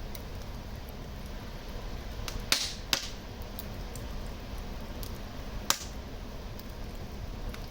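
Wood fire crackling in a fireplace: a steady low rush of burning under scattered small snaps, with three sharp pops, two close together about two and a half seconds in and another near six seconds.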